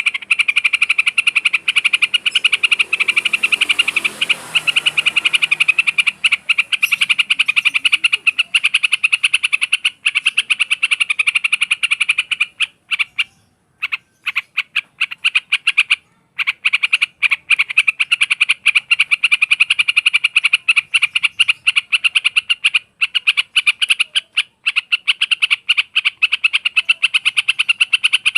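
Trucukan (yellow-vented bulbul) calling in a fast, unbroken run of short clicking notes, breaking off briefly about halfway through.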